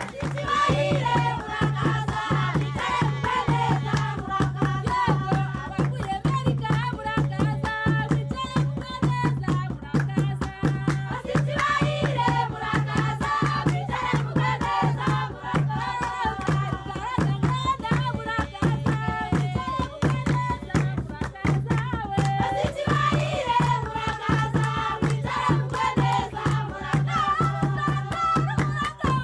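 Group singing with rattles and percussion keeping a steady, fast rhythm.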